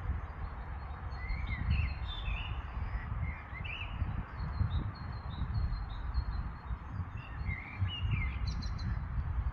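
Birds singing in short chirping phrases, a cluster about a second in and another near the end, over a steady low rumbling noise.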